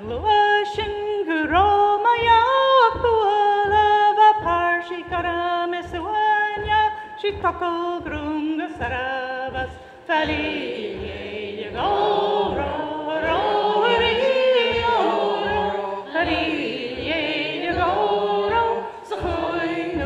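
Gaelic milling song sung a cappella: one lead voice sings the verse, then a group of voices joins in for the chorus about halfway through. Under the singing, woollen cloth is pounded on a table in steady thumps about twice a second, keeping time with the song.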